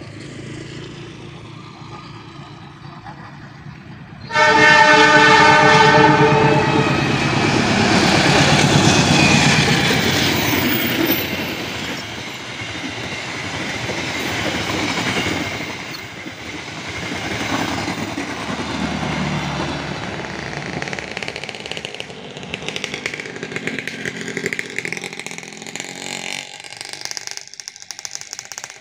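Indonesian passenger train (KA Ranggajati) sounding its horn in one blast of about two seconds as it arrives, then its carriages running past, a loud rumble and clatter of wheels on rails that slowly dies away.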